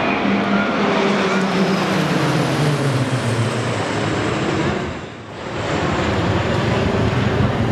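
Turboprop aerobatic aircraft, the Jupiter Aerobatic Team's KT-1B trainers, flying past: a loud engine and propeller drone over rushing noise, its pitch falling between about two and three and a half seconds in as the aircraft go by. The sound briefly drops about five seconds in.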